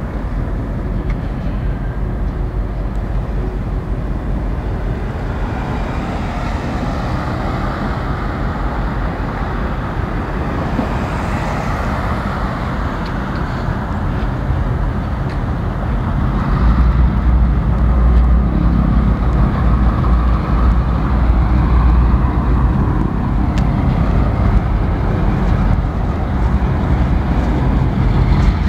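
Diesel-hauled freight train passing at a distance: a steady rumble of locomotive engines and rolling cars that grows louder and deeper about halfway through.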